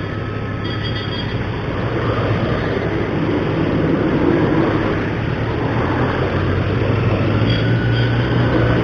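Motorcycle engine running steadily while riding, under a haze of wind and road noise that swells slightly midway.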